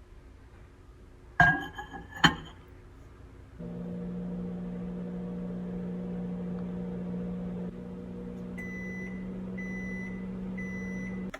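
Two sharp clacks, then a microwave oven starts up and runs with a steady low hum that shifts slightly partway through. Near the end three long beeps about a second apart signal the end of the cooking cycle, and the hum cuts off.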